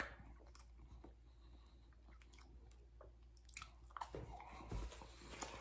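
A person biting and chewing toast, faint at first, with a few louder crunchy bites from about three and a half seconds in.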